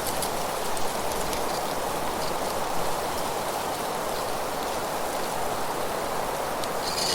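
Steady rushing, rustling outdoor noise with a few faint, short, high chirps scattered through it.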